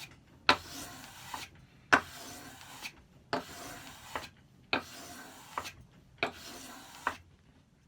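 Steel plane blade, from a Record No. 5, being honed on 800-grit abrasive paper at the micro-bevel stage. Five scraping strokes come about 1.4 s apart, each starting with a sharp click and ending with a softer one, and the strokes stop about a second before the end.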